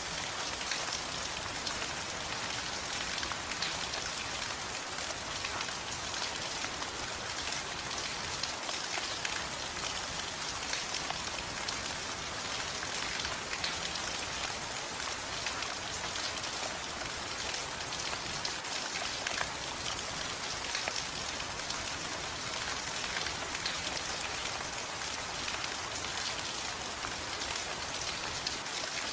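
Steady heavy rain, a dense patter of drops falling on a surface, with no pauses or changes.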